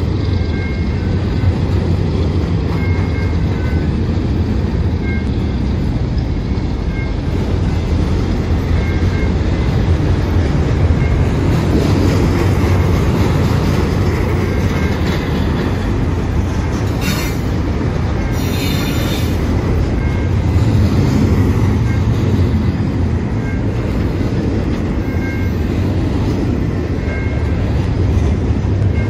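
Double-stack intermodal well cars rolling past at speed: a steady rumble of steel wheels on rail. A brief high-pitched squeal comes about two-thirds of the way through, and a grade-crossing bell dings faintly at intervals underneath.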